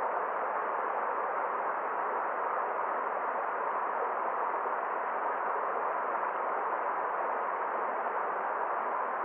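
Forest stream water running in a steady, even rush, with no distinct splashes or other events.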